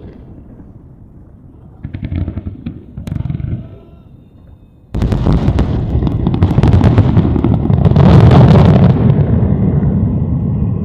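Aerial fireworks bursting: a few separate booms, then about five seconds in a sudden dense barrage of rapid bangs and crackle over a deep rumble. It is loudest about eight seconds in and begins to ease near the end.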